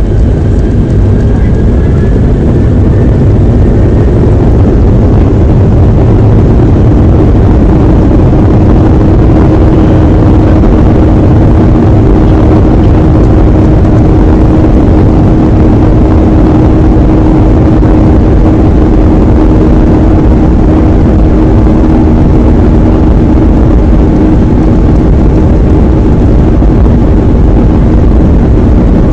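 Boeing 737-800's CFM56 jet engines running at high power, heard inside the passenger cabin as a loud, steady roar. A steady low hum comes in several seconds in and holds.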